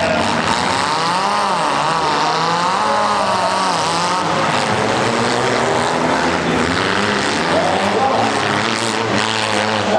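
Several compact-car engines running and revving at once, their pitches rising and falling over one another, with heavy engine noise underneath.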